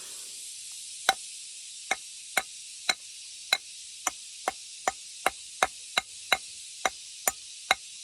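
Repeated chopping strikes of a blade, about fifteen sharp, slightly ringing blows at roughly two a second, over a steady high hiss.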